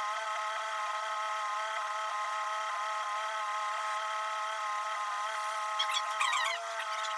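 A machine motor running steadily at a constant pitch, which sags briefly about six seconds in, as if under load, and then recovers; a few short high squeaks come at the same moment.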